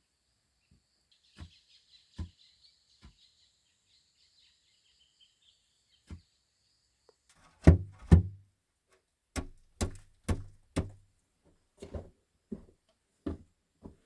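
An irregular series of dull knocks, a few spaced out at first, then a quicker run from about halfway, with the loudest pair just after that.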